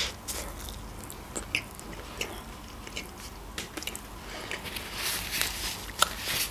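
Close-miked chewing of a mouthful of food with lips parted: scattered small wet clicks and smacks. Near the end comes a short rustle, as a paper napkin is wiped across the mouth.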